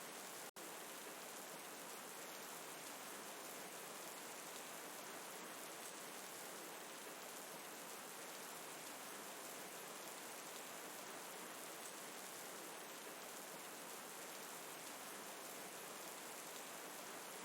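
Steady rain falling, a steady even hiss with small scattered drop sounds, from a rain, river and fire ambience recording. The sound cuts out for an instant about half a second in.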